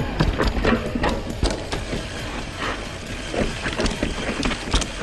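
Mountain bike clattering down a rutted dirt trail: irregular knocks and rattles from the chain and frame as the wheels hit bumps.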